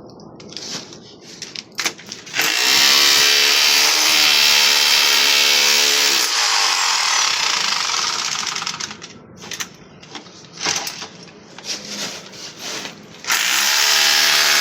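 Handheld electric power tool running in bursts, with a motor whine over a harsh grinding-cutting noise. One long run starts about two seconds in, several short blips come near the middle, and another run starts near the end.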